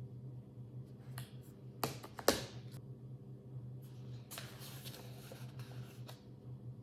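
A few sharp clicks, then a stretch of rustling, over a steady low hum.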